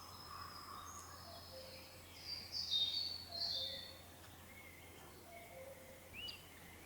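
Several songbirds chirping and singing over a faint background hiss, with a louder run of chirps about two and a half seconds in and a short up-and-down note near the end.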